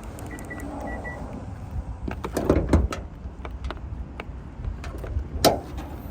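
Clicks and knocks from a 2016 Hyundai Genesis Coupe's hood being unlatched and raised, with a cluster of knocks after about two seconds and one sharp click, the loudest, about five and a half seconds in. A few faint high beeps sound near the start.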